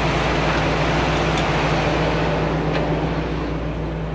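Heavy truck engine running steadily, a constant low hum over broad mechanical noise that eases off slightly near the end.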